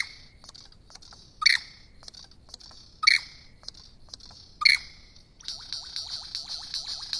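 Bird calls: a loud, sharp call repeated three times about a second and a half apart, then, from about five and a half seconds in, a fast steady series of short falling notes.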